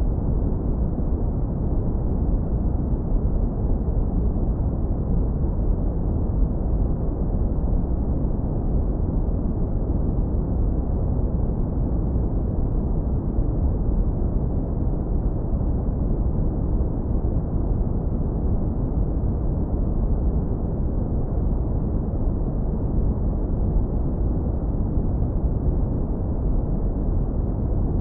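Steady, deep brown noise, heavily low-pass filtered so that only a warm, smooth low rumble remains, with no change or events.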